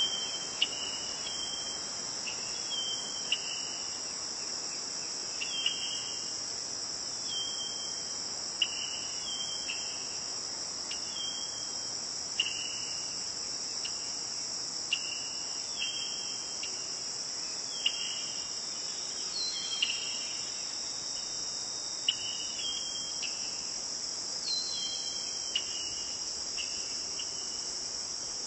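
Crickets trilling in a steady high-pitched chorus, with short chirping notes repeating over it about every one to two seconds.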